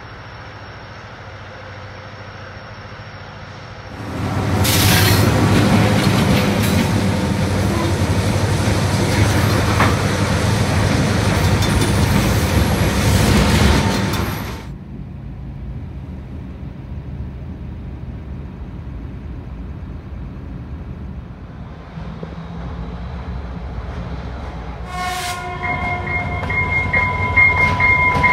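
Canadian Pacific freight train climbing a grade with loaded hopper cars: the diesel locomotives working in the distance, then a much louder, noisy stretch of cars rolling close by on the rails for about ten seconds. Near the end the locomotive horn begins to sound, a held chord of several notes.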